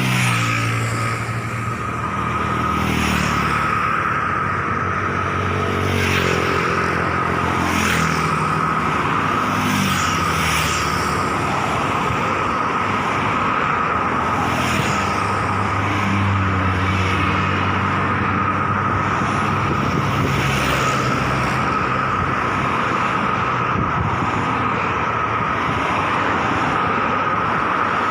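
Aircraft turbine engine running steadily: a constant high whine over a lower engine drone that shifts in pitch now and then.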